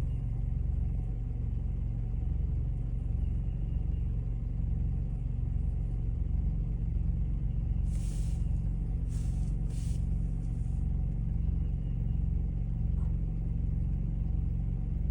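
Steady low engine rumble, like an idling vehicle, with a regular pulse. Three short hisses come about halfway through.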